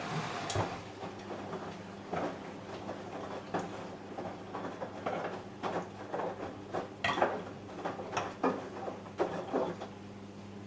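Samsung Eco Bubble washing machine running a wash cycle: a steady low hum with irregular clicks and knocks as the load tumbles in the drum, loudest a little past the middle.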